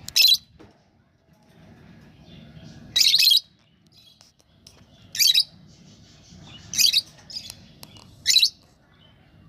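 Lovebirds calling: five loud, shrill screeches spaced a second and a half to three seconds apart, the second one longest, with softer chattering in between.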